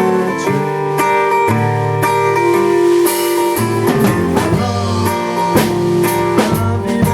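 A band playing a song: guitar over bass and a drum kit, the drum hits growing busier about four seconds in.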